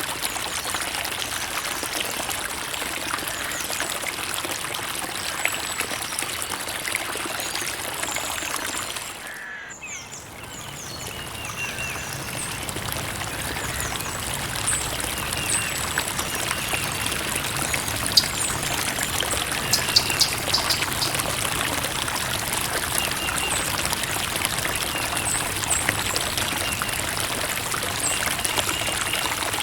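Creek water trickling and splashing in a steady rush. It dips briefly about a third of the way in and swells back up, and a few short high chirps come through in the second half.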